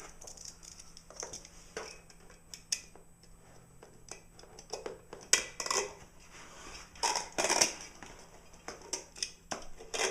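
Knife cutting into a 15-inch subwoofer to take it apart: a run of irregular scraping, rasping strokes and small clicks, with the loudest strokes around the middle and again a little later.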